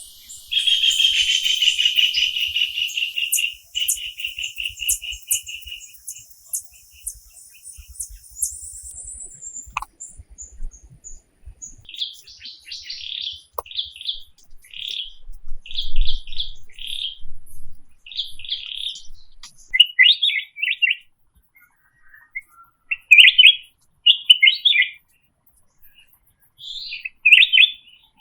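Birds chirping in forest: a buzzing, pulsing trill for the first few seconds, then a bird repeating short chirping phrases over and over from about twelve seconds in. A few soft low thumps come in the middle.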